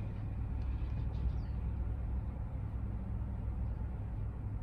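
Steady low rumble of a car on the move, with no speech over it.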